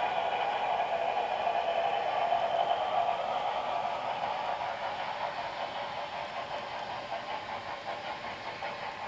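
HO-scale model steam locomotive's onboard sound system playing chuffing and hiss through its small speaker, growing steadily fainter as the engine moves away.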